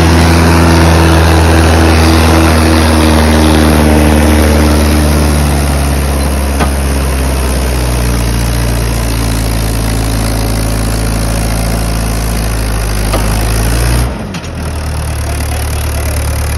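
Tractor diesel engine running steadily and loud. Its pitch eases down a little partway through, and it dips briefly near the end before carrying on.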